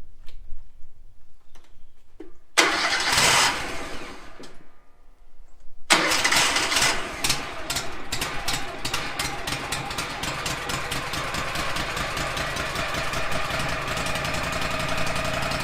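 Wood-Mizer sawmill engine being started after sitting unused for almost a week: a first burst about three seconds in, then about six seconds in it fires right up and runs, uneven at first, settling into a steady run.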